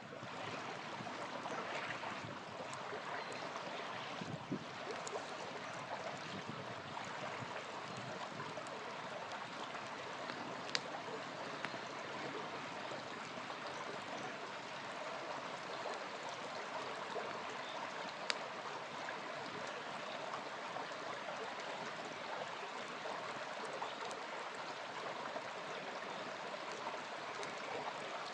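Steady rushing and gurgling of a small flowing river, with an occasional sharp crackle from a campfire.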